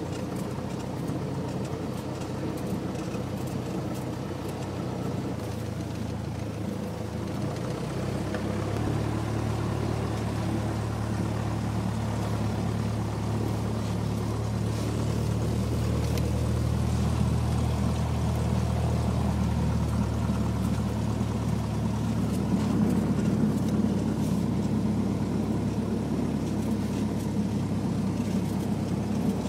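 Cessna 172's piston engine and propeller droning steadily. About eight seconds in, the drone steps up in pitch and grows louder as engine power increases.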